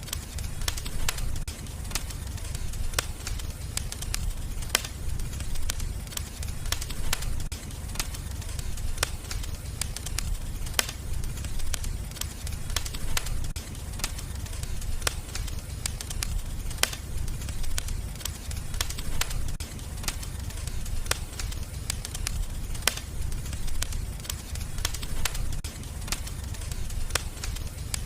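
Wood fire in a fireplace crackling, with irregular sharp pops several times a second over a steady low rumble of the flames.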